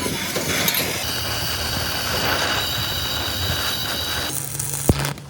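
Steady mechanical din with a high steady whine running through it, and one sharp knock near the end.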